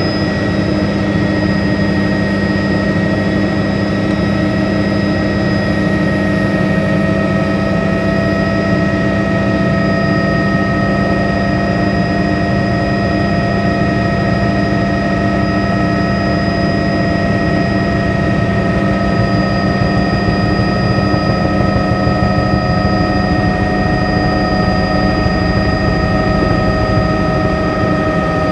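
Helicopter running steadily up close: turbine whine over the rapid, dense beat of the rotor, holding an even level throughout.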